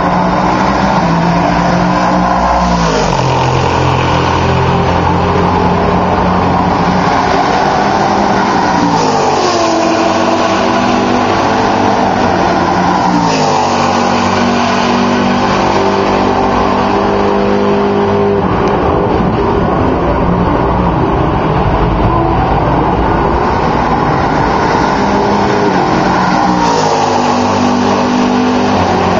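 Sports-car racing prototypes and GT cars passing at full throttle one after another, each engine's pitch dropping sharply as it goes by, about four times, with other cars' engines running on between passes.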